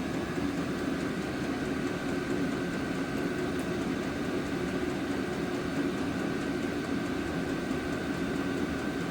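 Vevor 8 kW all-in-one diesel air heater running on its highest level, 11: a steady whir of the blower fan pushing out hot air, with a faint hum.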